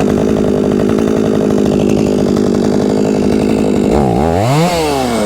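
Two-stroke chainsaw engine running steadily at idle just after starting. About four seconds in it is revved once, the pitch climbing and then falling back.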